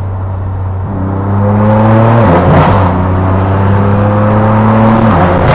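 Straight-piped BMW engine and exhaust accelerating hard, the pitch climbing steadily through a gear, with an upshift about two seconds in and another near the end; loud enough to be called mean-sounding.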